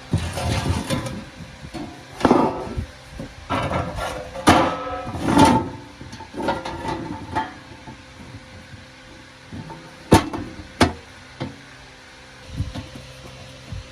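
Irregular knocking and clattering of parts or tools being handled, with two sharp taps about ten seconds in.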